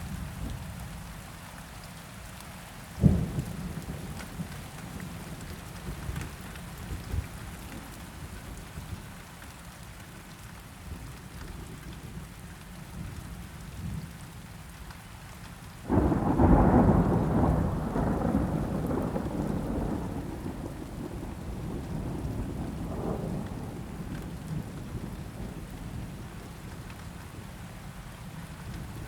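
Steady rain with thunder: a short sharp thunderclap about three seconds in, then a loud rumble of thunder that breaks suddenly a little past halfway and rolls away over several seconds.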